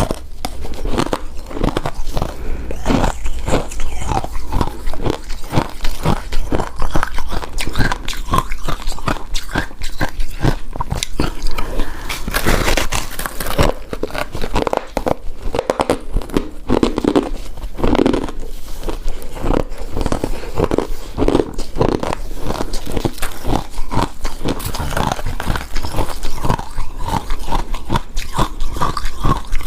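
Close-miked eating sounds: a person biting and chewing shaved ice and snow ice dessert, with dense, irregular icy crunching and crackling throughout.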